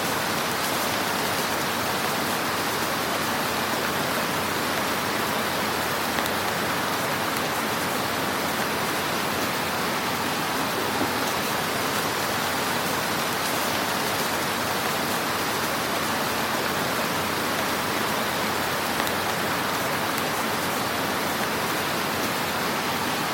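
Fire burning in a fireplace: a steady hiss with a few small crackles now and then.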